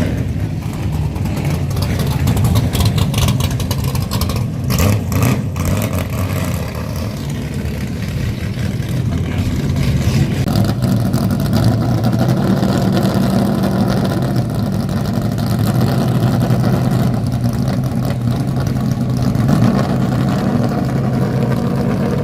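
A truck's engine runs with a steady low rumble, growing a little stronger about ten seconds in. A few sharp knocks come around five seconds in.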